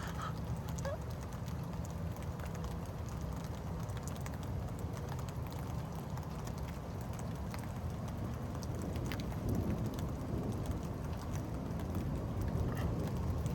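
Steady rain falling, with scattered drips ticking close by.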